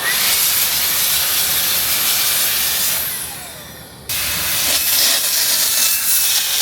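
Grinder blade cutting into a concrete foundation wall to open up a crack: a loud, hissing grind with a thin high whine. It eases off about three seconds in and starts again abruptly about a second later.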